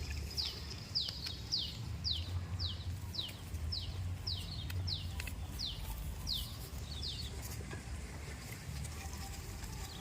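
A bird repeating a short, high whistle that slides down in pitch, about twice a second, stopping about seven seconds in. A steady low rumble runs underneath.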